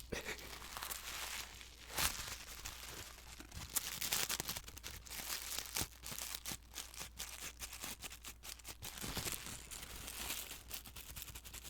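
ASMR crinkling: hands scrunching and rustling a crinkly material, giving a dense, irregular run of sharp crackles, with a louder crackle about two seconds in.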